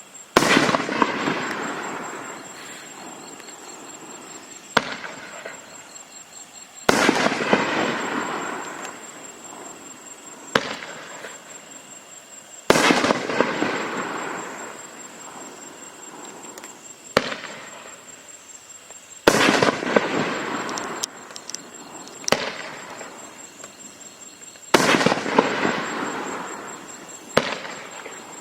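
Raccoon Fireworks Neon Rings compact firework firing ring-pattern shots one after another: each shot is a sharp launch crack, then about two seconds later a loud burst that trails off over several seconds. Five bursts, roughly every six seconds.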